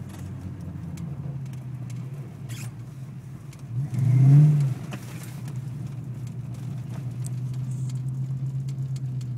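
A 5.0 V8 Ford Mustang driving slowly, heard from inside the cabin as a steady low drone. About four seconds in comes a short, louder swell that rises and falls in pitch. The owner is chasing a vibration in the car that he says is worst at about 5 to 15 mph.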